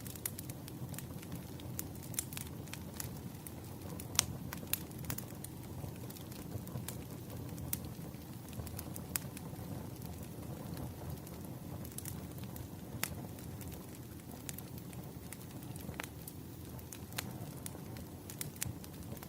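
Campfire burning: a steady low rumble with irregular sharp crackles and pops from the burning wood, some louder snaps scattered through.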